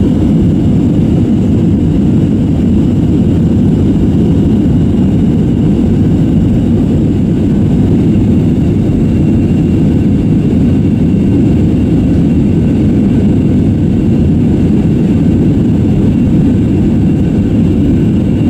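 Steady, loud low roar of an Airbus A321-232's jet engines and the rushing air, heard from inside the passenger cabin in flight, with faint steady high whines above it.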